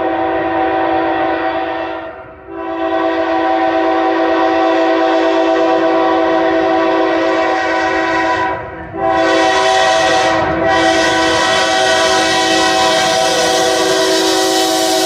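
Diesel freight locomotive air horn sounding a chord of several steady notes in long blasts, with short breaks about two seconds in and near nine seconds, the last blast still going at the end, over the low rumble of the train.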